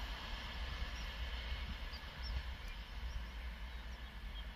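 Distant rumble of an express train of LHB coaches receding down the line, a low steady rumble and hiss slowly fading, with a few faint high bird chirps over it.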